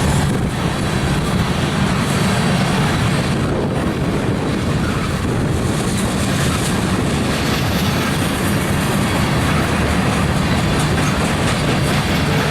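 Freight train of covered hopper cars rolling past, wheels clattering over the rail joints in a loud, steady rumble.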